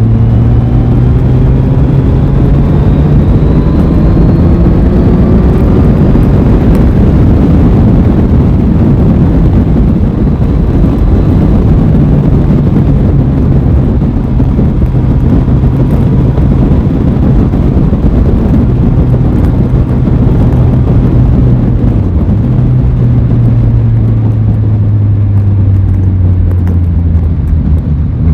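Aprilia Tuono 660's parallel-twin engine under way, pulling up through the revs over the first few seconds and then holding a steady cruising note, with a loud rush of wind and road noise.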